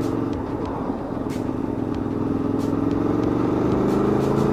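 Aprilia Tuono V4's V4 engine pulling under acceleration, its note rising steadily through the second half, over low wind rush.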